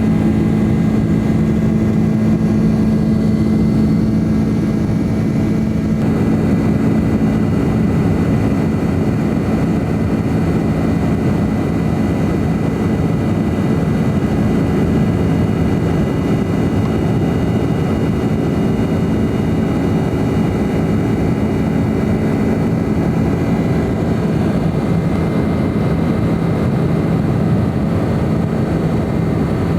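Jet engine and airflow noise inside the cabin of a McDonnell Douglas MD-11 airliner: a steady drone with several held whining tones, some of the higher tones dropping away about six seconds in.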